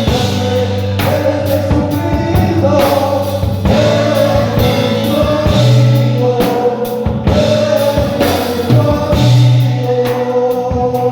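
Live worship music: a band with drums and bass playing a song while voices sing along.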